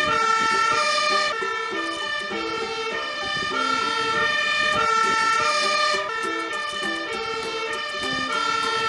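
Toy fire truck's electronic sound chip playing a buzzy, bright tune of stepped notes that change pitch and length like a short melody.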